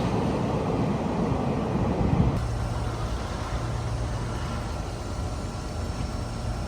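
Taiwan Railway train passing with a loud rumble that cuts off abruptly about two seconds in, giving way to a quieter steady low engine hum.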